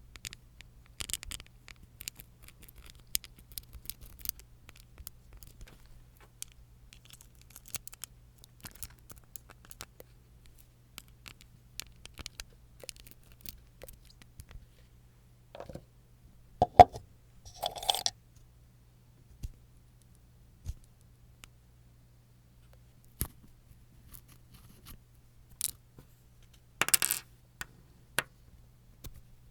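Small clicks, taps and scratches from handling nail-care tools and small objects up close. Two sharper, slightly ringing taps come just past the middle, and a short scratchy rasp comes near the end.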